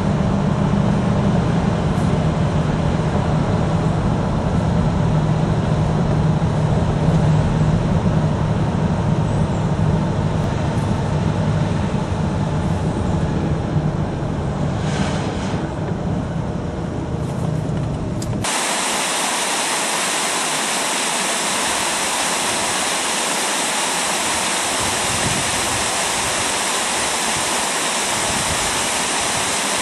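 1972 Buick Riviera's 455 cubic-inch V8 with factory dual exhausts running steadily under way, heard from inside the car. About two-thirds of the way through it cuts off suddenly to the steady rush of a small waterfall.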